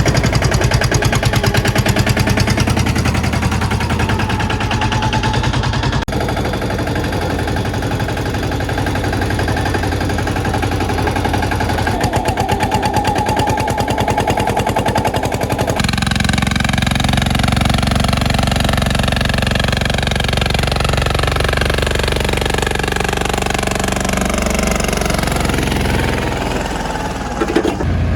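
Mini tractor engine running with a fast, even firing beat. The sound shifts abruptly about 6 and 16 seconds in, and in the last part pitches glide up and down over the engine's steady note.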